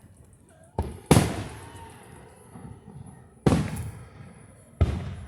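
Firework shells bursting overhead: four sharp bangs, two in quick succession about a second in, another a couple of seconds later and a last one near the end, each trailing off in a rumbling echo.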